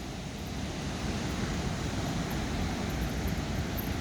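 Steady rush of ocean surf and wind, with a low rumble of wind on the microphone.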